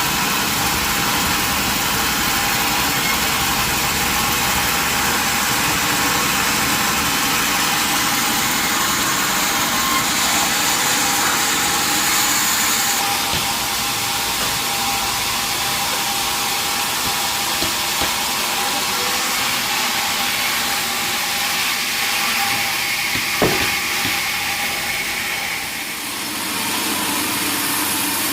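Sawmill machinery running steadily, a loud continuous mechanical noise of engine and saw, with one sharp knock about 23 seconds in.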